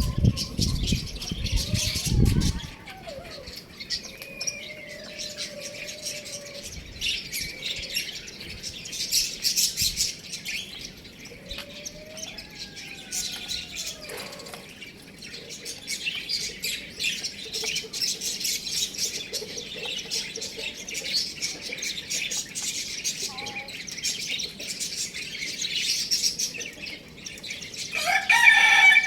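Many small birds chirping and chattering without a break, with a few lower sliding calls among them; a low rumbling noise runs through the first couple of seconds. Near the end a rooster starts to crow.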